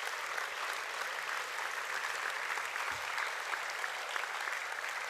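An audience applauding, steady clapping from many hands in a large hall.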